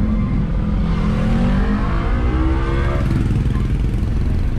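Mitsubishi L300 pickup accelerating on the road through an aftermarket coiled-baffle ('lilitan') muffler, a deep exhaust note rising in pitch. About three seconds in the pitch drops and climbs again, as at a gear change.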